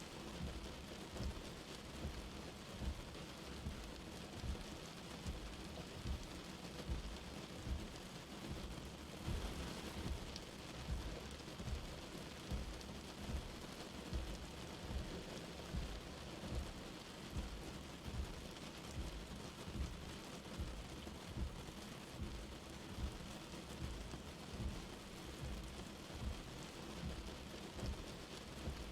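Light rain falling steadily, with soft low thumps recurring about once a second.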